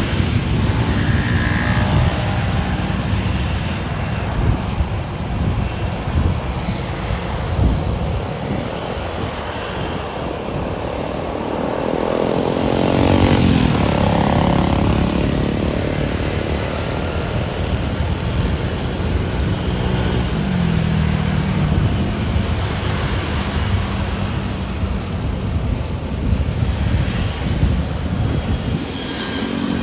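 Jet airliner engines rumbling as the plane passes, with a whine that slides down in pitch about halfway through.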